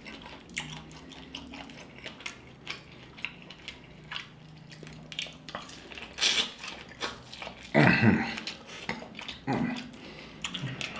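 Close-miked eating of seafood-boil corn on the cob dipped in sauce: wet biting, chewing and lip-smacking made of many short clicks, louder about six and eight seconds in, with a brief hum from the eater near the louder moment.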